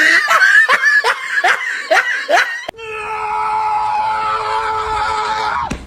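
A voice giving a quick run of about seven short rising cries, like laughter. After an abrupt cut, one long steady cry is held for about three seconds.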